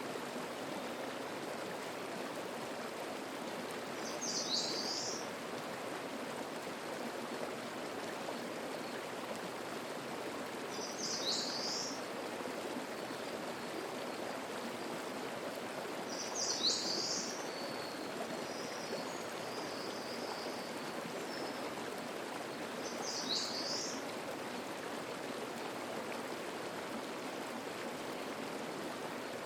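Mountain stream babbling steadily, with a bird repeating a short, high song phrase about every six or seven seconds.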